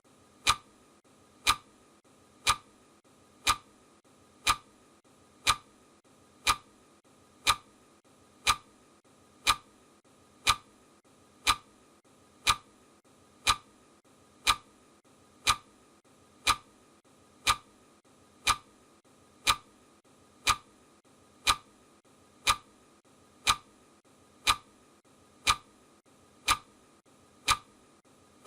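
Clock ticking sound effect: a sharp tick once every second, steady and even, over a faint steady background hum.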